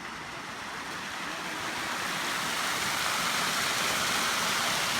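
Steady rush of falling water, growing louder about a second and a half in, then holding.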